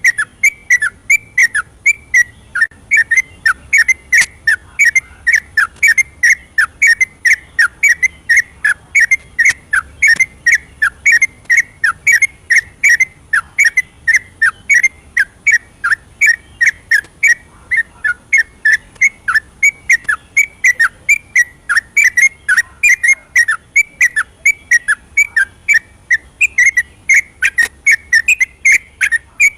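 Yellow-vented bulbul (trucukan) singing a fast, unbroken run of short whistled notes, about three a second: the long 'ropel' song used as a lure to set kept trucukan singing. A faint steady high whine runs underneath.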